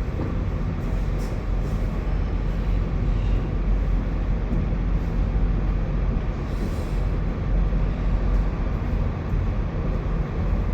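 A large idling engine rumbling steadily, with a few faint scrapes.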